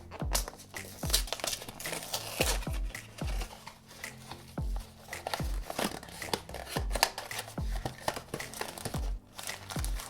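Blind-box packaging being torn open by hand, crinkling and tearing, over background music with a steady beat.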